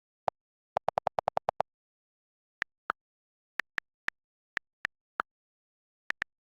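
A series of short, sharp clicks with dead silence between them. There is a quick run of about nine clicks around a second in, then single and paired clicks at irregular gaps of a fraction of a second.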